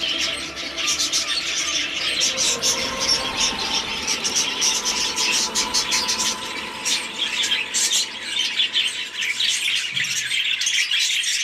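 Budgies chattering and squawking, many birds calling at once in a dense run of short high chirps.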